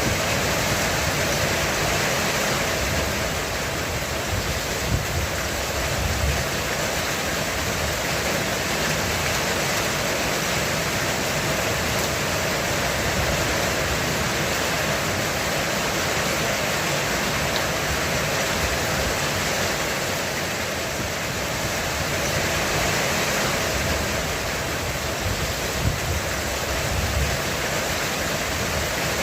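Heavy rain falling steadily on a roof, a dense, even hiss, with low rolling thunder swelling briefly about six seconds in and again near the end.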